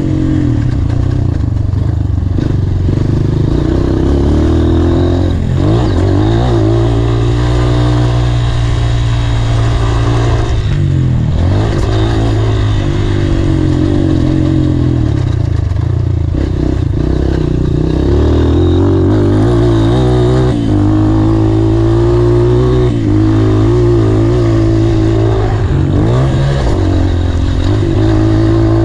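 Honda CRF230 dirt bike's single-cylinder four-stroke engine being ridden hard, revving up and down continuously. The pitch climbs through the gears and falls back sharply several times as the rider shifts and backs off.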